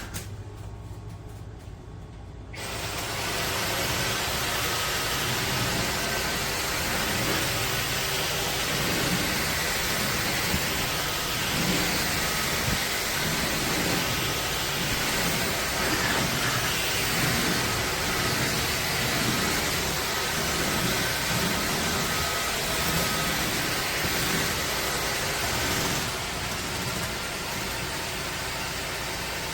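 Dyson Gen5 cordless stick vacuum switching on about two and a half seconds in and running steadily with a high, even whir while vacuuming. Its sound drops slightly near the end.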